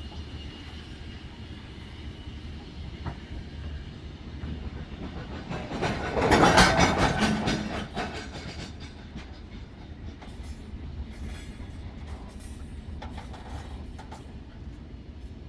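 Mauritanian iron-ore freight train rolling along the rails with a steady low rumble. It swells loud about six seconds in, and scattered clicks and rattles follow near the end.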